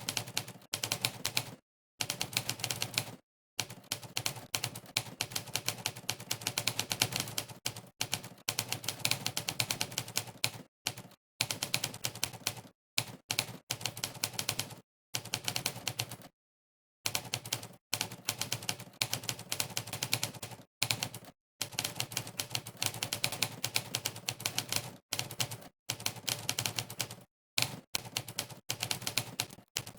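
Monkeytype's typewriter sound effect: a sampled typewriter key strike played for every keypress during fast typing. The strikes come in quick runs of clicks, broken every few seconds by short gaps of dead silence.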